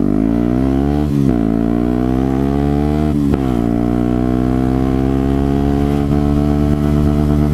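Yamaha WR125X's 125 cc single-cylinder four-stroke engine accelerating hard: revs climb, drop sharply at upshifts about one and three seconds in, then rise steadily through a long pull in the next gear. Sick-sounding.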